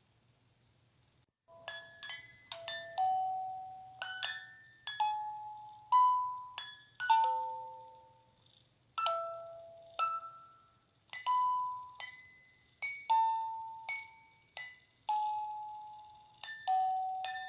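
Slow, gentle melody of single bell-like chime notes, each struck and left to ring and fade, starting about a second and a half in, with a faint low hum beneath.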